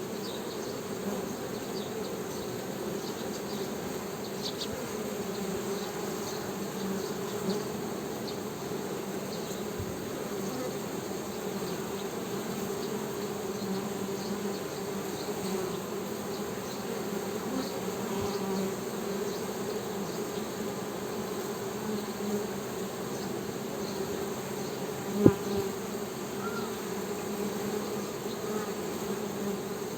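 Honey bees humming steadily, a low hum. One sharp click sounds about 25 seconds in.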